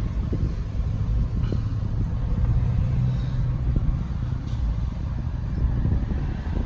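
A steady, low vehicle rumble.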